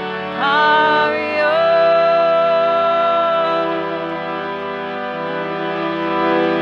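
Harmonium holding sustained chords under a voice chanting a mantra. The voice slides up into a long held note about half a second in, and again near a second and a half.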